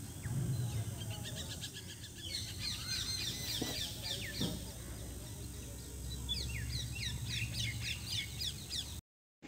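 A small bird chirping in two quick runs of short, falling notes, over a low steady rumble. The sound cuts out just before the end.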